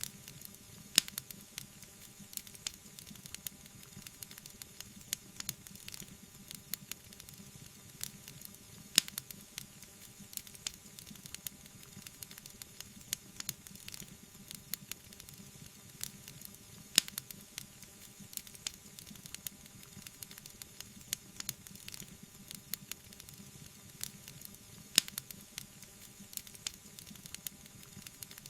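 Wood fire burning in a fireplace: a steady soft hiss with frequent small crackles and pops, and a sharper, louder snap about every eight seconds.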